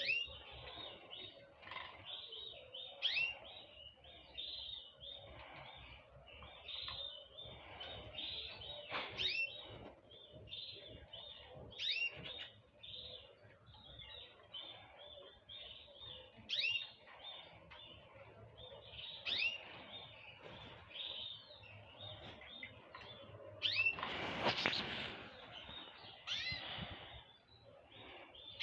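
Many small birds chirping and twittering together, a dense run of short, sharp sweeping calls. About twenty-four seconds in there is a louder, noisier burst.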